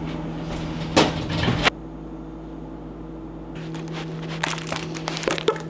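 A steady, even hum of several tones under a series of sharp clicks and light clattering, as of things being handled. The sound breaks off abruptly about a second and a half in, and the clicking returns more scattered near the end.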